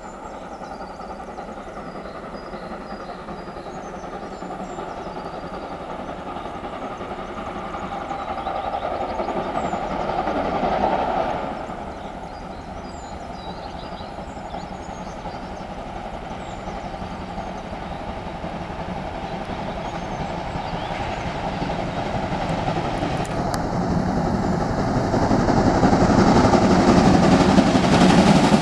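A train running on the rails, its rumble growing louder as it comes closer, with a sudden drop about eleven seconds in and a steady build after that. Birds chirp faintly behind it.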